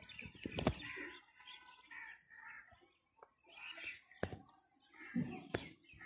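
Faint outdoor ambience with scattered short bird calls and a few sharp clicks.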